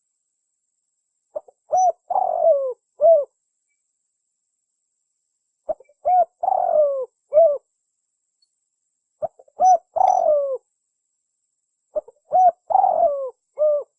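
Spotted dove (tekukur) singing its cooing song: four phrases, about one every three to four seconds. Each is a couple of short coos, a longer falling coo and a short closing note.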